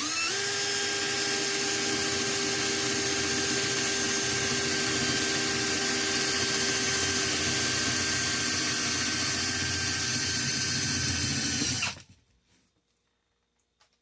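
Electric drill boring a hole through an aluminum bus bar. The motor runs at a steady pitch and stops abruptly about twelve seconds in.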